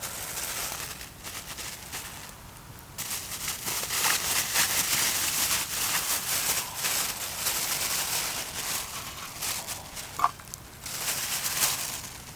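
Dry crackling and rustling in three bursts, the longest in the middle, with one short high squeak about ten seconds in.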